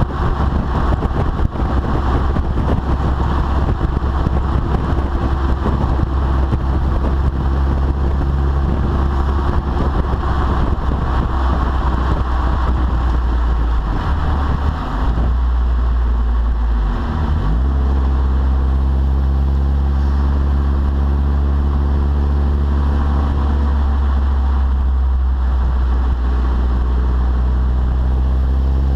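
Volkswagen Passat 1.8T's turbocharged four-cylinder running through a 3 in test pipe, Magnaflow glass pack and Borla Pro XS muffler, with a strong low drone under load. The note drops out briefly twice in the middle, then climbs slowly in pitch to the end.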